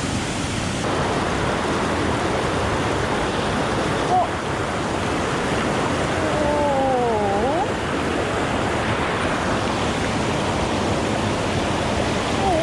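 Mountain stream rushing, a steady loud water noise.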